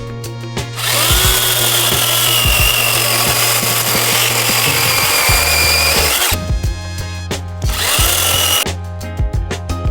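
Battery-powered brushless top-handle chainsaw running in two bursts, a long one of about five seconds and then a short one of about a second. Each burst opens with a whine that rises as the saw spins up. Background music with a steady beat plays under it.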